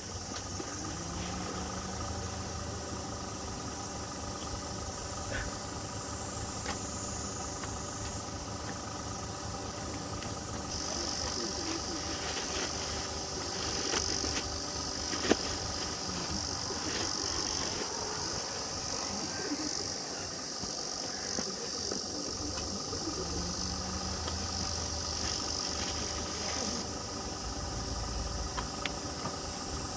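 Insects chirring steadily, with a high-pitched insect drone that starts about ten seconds in and stops abruptly a few seconds before the end.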